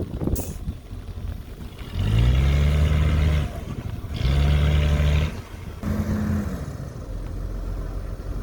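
Caterpillar 312B hydraulic excavator's diesel engine running, its note rising three times in bursts of about one to one and a half seconds, as the machine takes load.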